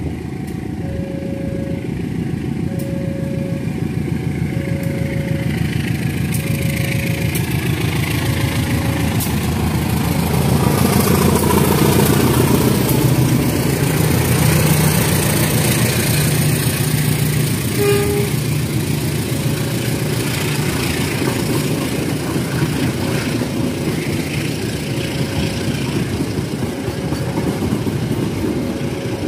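Diesel-hauled passenger train approaching and passing, its locomotive's engine growing louder over the first dozen seconds, then the coaches' wheels running steadily along the rails. A repeating beep about once a second sounds at the start, is drowned out while the locomotive passes, and comes back near the end.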